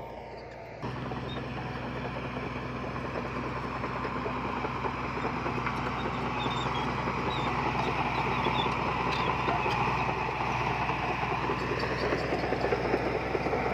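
Heavy diesel earthmoving machinery running: a steady engine hum with rough mechanical noise over it, growing gradually louder. The level jumps up suddenly about a second in.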